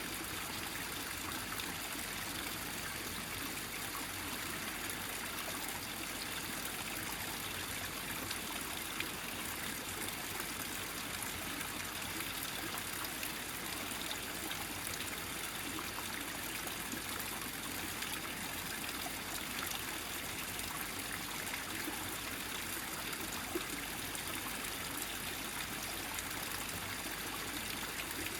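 Small mountain stream running steadily over rocks as one gathered flow, trickling and gurgling, with a couple of slightly louder splashes.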